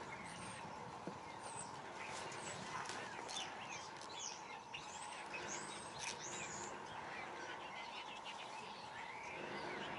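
Small birds chirping and calling, many short high chirps and quick whistled sweeps overlapping, thickest in the middle, over steady outdoor background noise.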